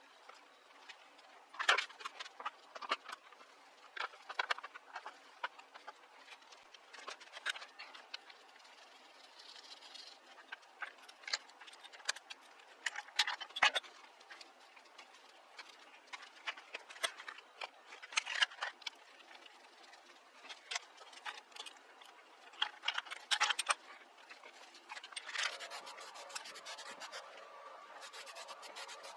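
Irregular clicks, light knocks and scraping of hands, tools and parts being worked on. About 25 s in, a steady hum with a few even tones starts.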